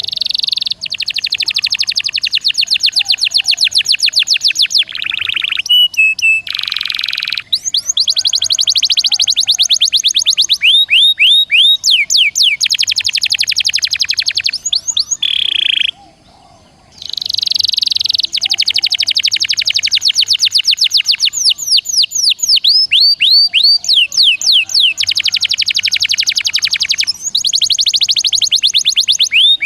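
Recorded songbird song in a bird-training track: very fast, dense trills and runs of rapidly repeated down-slurred whistled notes, in phrases broken by short pauses. The track mixes icterine warbler, sikatan londo and canary song.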